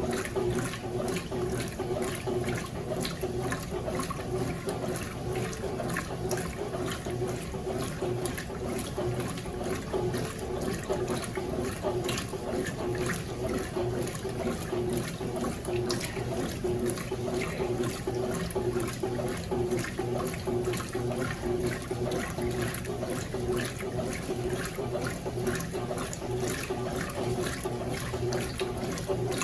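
Consul CWS12 12 kg washing machine agitating in the rinse: water sloshing steadily around the load, over a constant hum.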